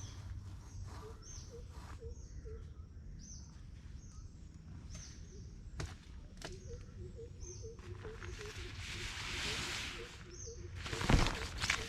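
Birds calling in woodland: a short, high falling chirp repeated every second or so, over a run of short low notes. Rustling builds about two-thirds of the way in, and near the end comes a louder rustle with a thump.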